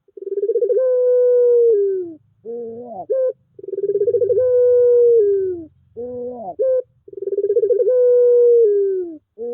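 Puter pelung turtle dove cooing: three long, level coos, each opening with a fast flutter and sinking in pitch at the end, alternating with short rising notes, in a regular cycle about every three and a half seconds.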